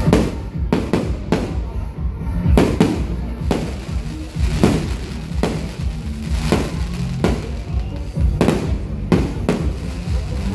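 Aerial firework shells bursting in a rapid string of bangs, about one or two a second, with music playing underneath.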